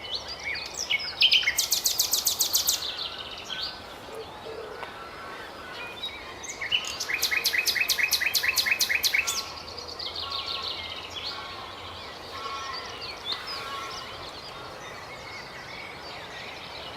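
Common nightingale singing: two loud phrases of rapid repeated notes, the first about a second in and the second about seven seconds in, with quieter varied warbles and whistles between and after them.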